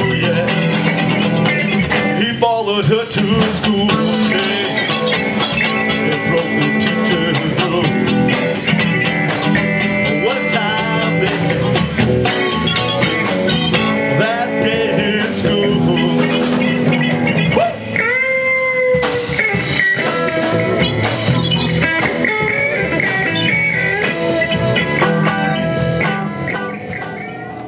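Blues band music with guitar, played continuously, with a held, bending note about two-thirds of the way through; it fades down near the end.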